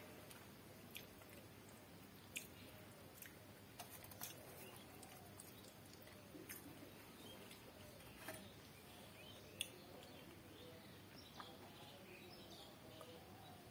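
Faint mouth sounds of eating by hand: quiet chewing with a scattering of sharp little lip-smacking clicks over near-silent room tone.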